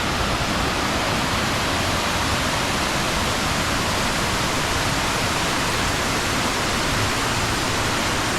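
Steady rush of a waterfall, water pouring over rock close by.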